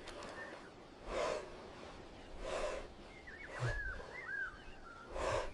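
Heavy rhythmic breaths or snorts, one about every second and a half. A few short whistled bird calls come in around the middle.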